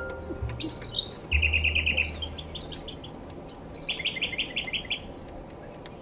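Wild birds calling: a few high chirps in the first second, then two rapid runs of short repeated notes, about ten a second, the second run starting about four seconds in.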